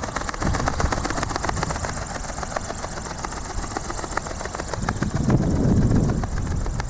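Strong wind buffeting the microphone with a low rumble, swelling in a gust about five seconds in, over a high hiss and a fast run of ticks.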